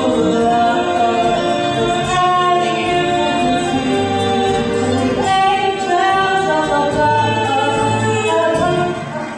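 Music: a song from a stage musical, with voices singing long held notes.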